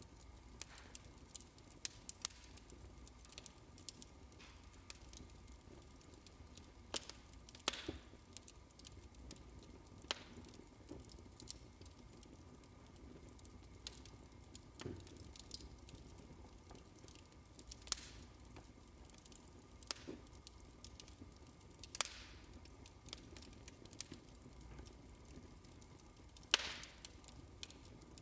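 Wood fire in a fireplace crackling quietly: irregular small snaps and pops over a low steady hiss, with a louder crack every few seconds.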